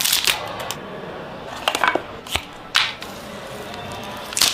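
Handling sounds of a smartphone unboxing: a series of short, sharp clicks, taps and rustles from the packaging and the phone being handled, spread a second or so apart.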